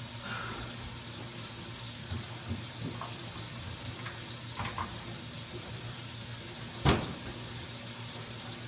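Steady hiss with a low hum, broken by a few light knocks and one sharp knock about seven seconds in.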